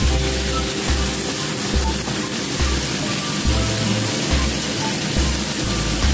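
Bitter melon and aromatics frying in oil in a frying pan, with a steady sizzle. Background music with a repeating bass line plays alongside.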